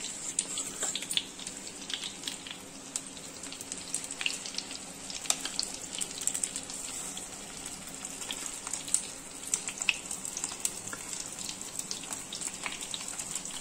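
Stuffed boiled eggs frying in hot oil in a nonstick pan, with egg batter being spooned over them: a steady sizzle with many small irregular crackles and pops.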